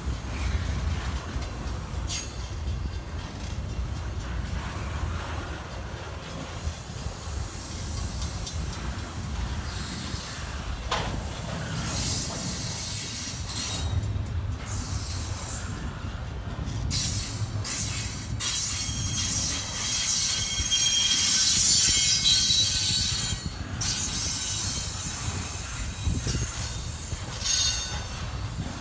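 Freight train cars rolling past with a steady low rumble, the wheels squealing high-pitched on and off against the rails, loudest about three quarters of the way through.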